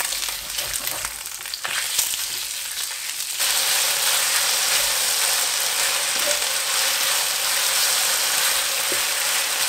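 Chicken pieces sizzling in hot oil in a wok over a gas burner, stirred with a wooden spatula. The sizzle steps up to a louder, denser hiss about three seconds in.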